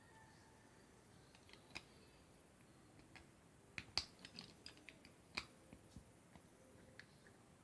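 Faint, scattered clicks and taps of small plastic LEGO pieces or models being handled, the sharpest about four seconds in and again about a second later.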